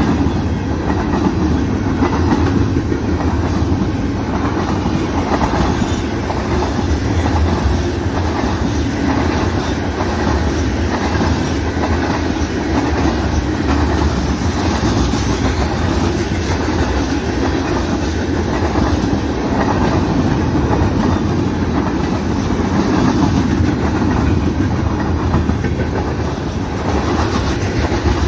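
Freight cars of a Canadian National mixed-freight manifest train rolling past: a steady rumble with a regular clickety-clack of wheels over the rail joints.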